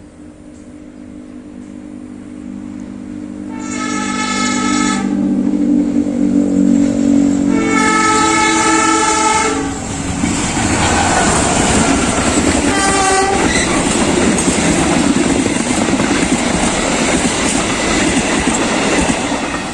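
Diesel locomotive hauling a passenger train as it approaches and passes. Its engine drone builds up, and its horn sounds two long blasts about four seconds apart, then a short third toot. After that the wheels clatter steadily over the rails as the coaches run by.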